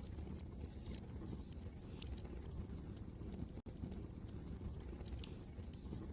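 Wood fire crackling, with irregular sharp pops and snaps over a steady low rumble of wind. There is a split-second dropout to silence a little past halfway.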